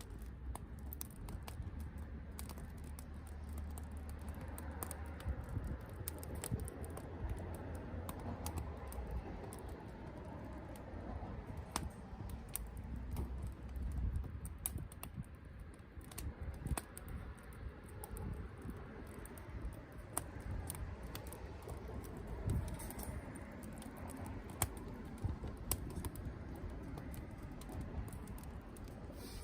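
Wood campfire crackling, with irregular sharp snaps over a low steady rumble that fades about halfway through.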